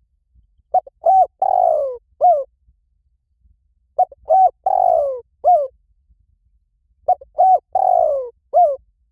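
Spotted dove cooing: the same four-note phrase three times, about three seconds apart. Each phrase is two short coos, a long coo falling in pitch, and a short closing coo.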